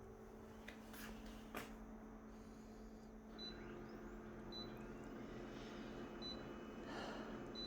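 Faint electronic beeps: short high pips repeating about once a second over a low steady hum, with two clicks a second or so in.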